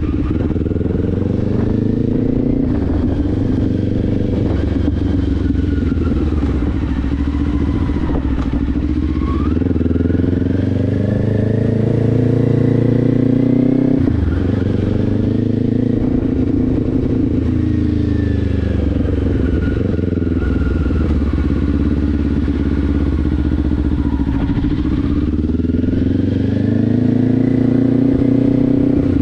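Kawasaki Ninja 500 parallel-twin engine running through a Leo Vince aftermarket exhaust while riding, the revs climbing and falling repeatedly. The pitch drops sharply at gear changes, about halfway through and again near the end.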